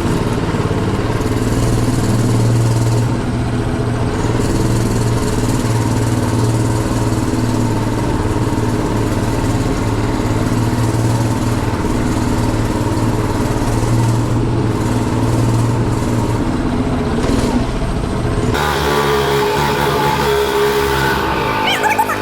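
Mini bike's small engine running steadily at an even pitch while being ridden. Near the end the engine sound gives way to guitar music.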